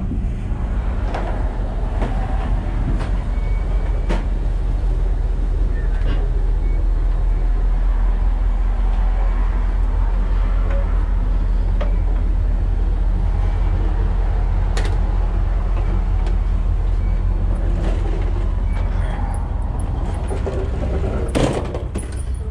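Passenger train in motion heard from the vestibule between cars: a steady low rumble of the running cars, with occasional sharp knocks and clatters.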